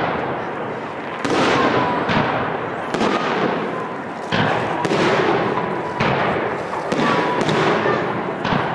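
Aerial fireworks salute: shells bursting one after another about every one to two seconds, each sharp bang followed by a fading crackle and echo.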